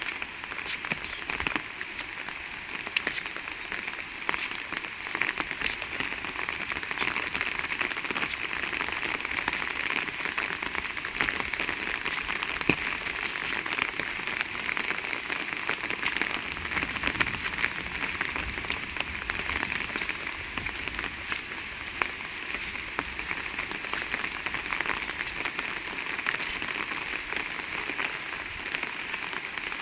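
Heavy rain falling steadily: a dense hiss of rain with many sharp ticks of individual drops striking close by.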